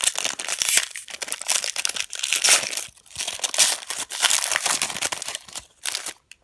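Wrapper of a 2013 Panini Momentum football card pack crinkling and tearing as it is opened by hand, in irregular runs of crackling that die away near the end.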